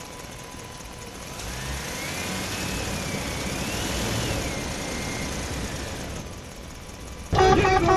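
Vehicle engine running up and revving, its whine rising and falling in pitch, then dying away. Near the end a loud horn-like tone cuts in suddenly.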